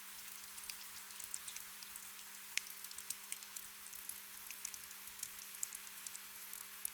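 Steady gentle rain, with many individual drops pattering and ticking close by over a soft hiss.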